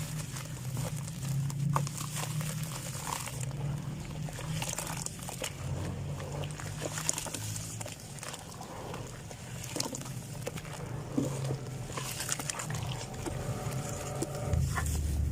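Dry sand-cement chunks being crumbled and crushed close to the microphone: scattered crunches and crackles over a low rumble.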